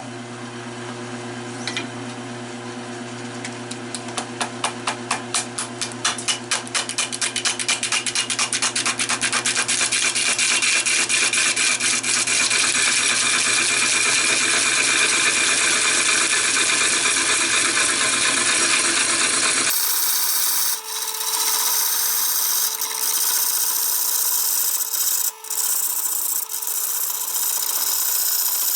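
Wood lathe running, a turning tool cutting a spinning fatwood (resinous pine) blank. The cut comes as rapid regular ticks over the motor hum that quicken and merge into a steady cutting hiss. Just before 20 seconds the sound changes abruptly: the motor hum drops out and a brighter scraping with a few knocks goes on.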